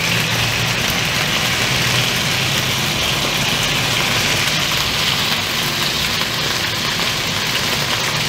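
Chicken drumsticks frying in hot oil in a wok, a steady sizzle as the pieces brown.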